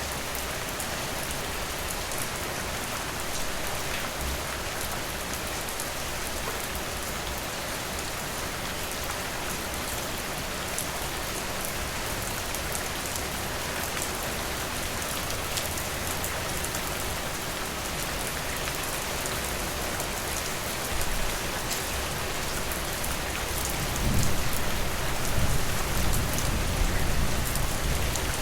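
Steady rain falling, with scattered individual drips. A low rumble of thunder comes in near the end and is the loudest part.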